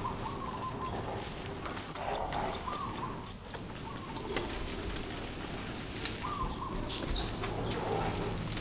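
Animal calls: short, high falling chirps and a few coo-like calls over a steady outdoor background.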